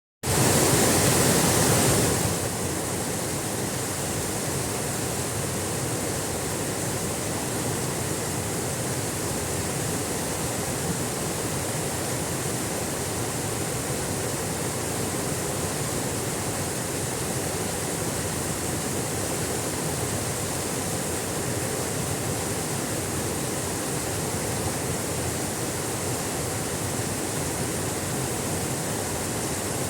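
Waterfall running with a low flow of water, a steady rushing noise that is louder for the first two seconds and then holds level.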